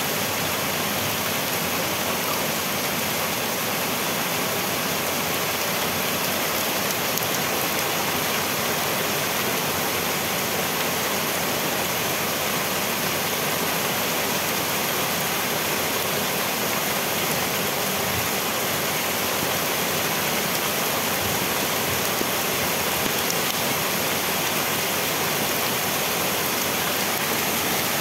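Heavy hurricane rain pouring down steadily: a dense, even hiss of rain on leaves and pavement.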